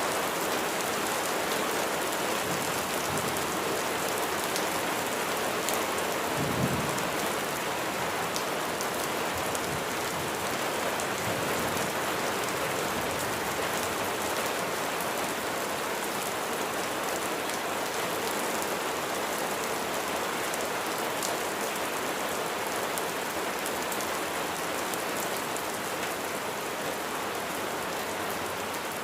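Heavy rain falling steadily on a surface, with a short low thump of thunder about six and a half seconds in.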